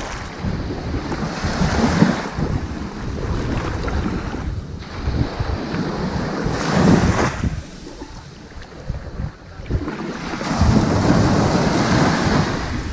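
Ocean waves breaking and washing up onto a sandy beach. Three surges of surf swell and fade over the stretch, about one every four to five seconds.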